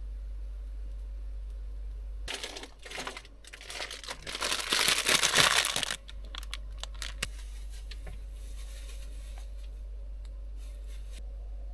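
Packaging crinkling and rustling as it is handled for about three and a half seconds, loudest near the end, followed by a few light clicks.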